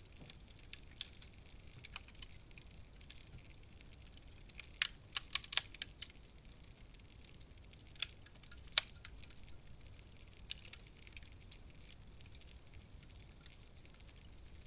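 Wood fire crackling in a fireplace: scattered sharp pops over a soft hiss, with a quick run of several pops about five seconds in and two louder single cracks a few seconds later.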